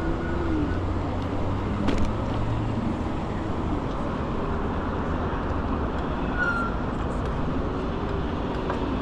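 Steady road and traffic noise heard while riding through city streets, with a low rumble and passing cars. A single sharp click comes about two seconds in.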